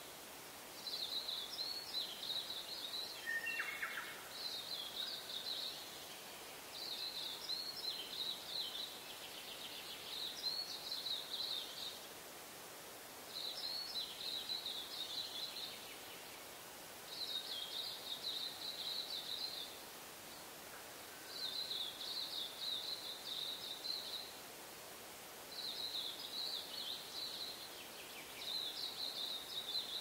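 A songbird singing the same short, rapid, high-pitched phrase over and over, one every three seconds or so, above a faint steady background hiss. A brief lower call from another bird comes about three and a half seconds in.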